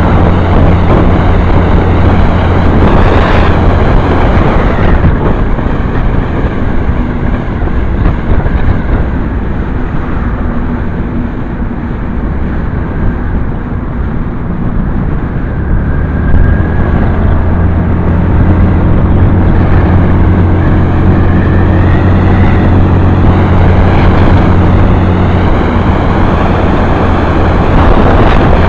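Motorcycle engine running while riding, with loud wind rush over the camera microphone. It eases off for a stretch in the middle and picks up again after about sixteen seconds.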